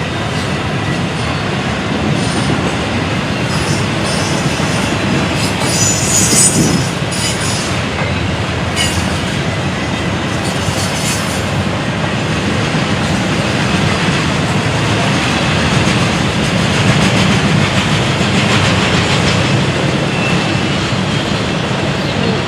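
Train rolling past, with a steady rumble and clatter of railcar wheels on the rails. Brief high-pitched screeches come about six seconds in and again around eleven seconds.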